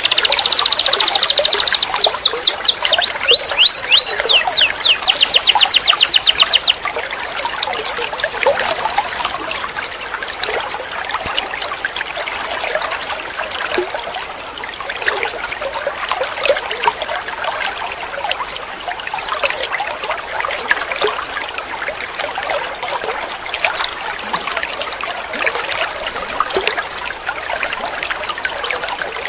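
Canary singing loud, rapid trilled phrases of fast-repeated high notes, which break off suddenly about seven seconds in. What follows is a steady, quieter trickle of running water with fine crackling.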